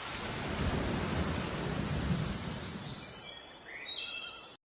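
Storm sound effect: steady rain with a low rumble of thunder that swells and then fades away, with a few short high chirps near the end before it cuts off.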